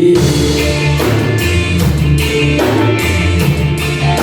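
Live rock band playing an instrumental passage between sung lines: electric guitar and bass over a drum kit keeping a steady beat, with cymbal hits about twice a second.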